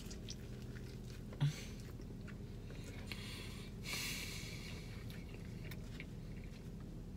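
A person chewing a mouthful of fried chicken sandwich on glazed donut buns, with soft wet mouth clicks, over a steady low hum. A soft hiss comes about three to four seconds in.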